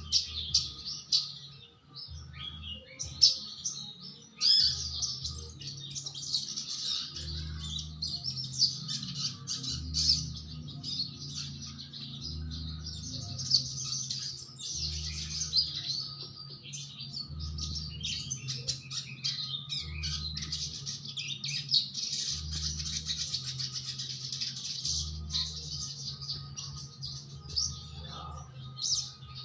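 Sogon bird singing without a break in a dense stream of high chirps and twitters, the vigorous full song that bird keepers call gacor.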